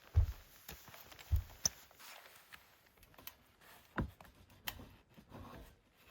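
Footsteps in snow: a few irregular soft thuds with light crunching clicks between them.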